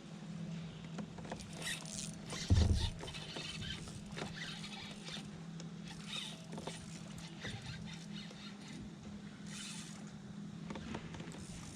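Fishing kayak on the water: a steady low hum under scattered squeaks and clicks, with a dull knock about two and a half seconds in.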